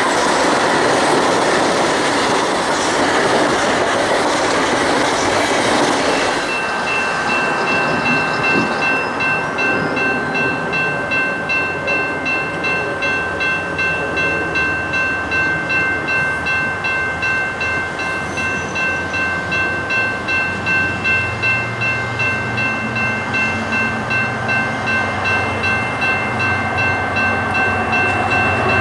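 A train passing close by. A loud rush of wheel and rail noise for the first six seconds gives way to the cars rolling past with a regular clatter, about two beats a second, and a steady high-pitched ringing tone.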